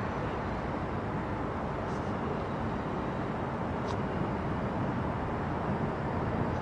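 Steady, even vehicle rumble, with two faint clicks about two and four seconds in.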